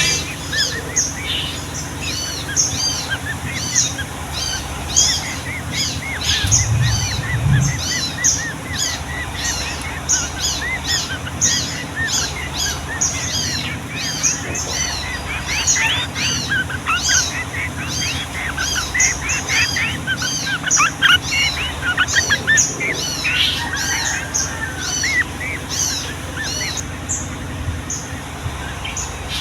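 Sooty-headed bulbuls singing busily, a continuous run of quick, overlapping whistled and chattering notes that sounds like several birds at once.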